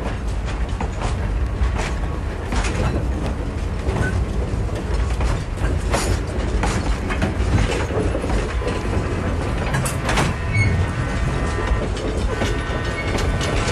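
Railroad train running on the track: a steady low rumble with irregular clanks and clicks from the wheels and cars, played from a 1958 stereo LP recording. A few faint held tones come in near the end.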